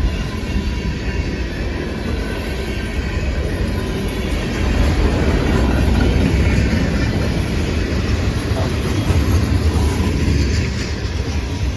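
Freight cars of a long CSX freight train rolling past, a steady rumble of steel wheels on the rails that swells a little in the middle and eases near the end.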